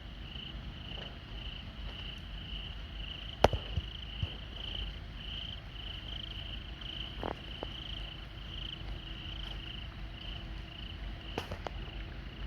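Crickets chirping in a steady pulsing chorus over a low background hum. A single sharp click about three and a half seconds in, with a couple of fainter ticks later.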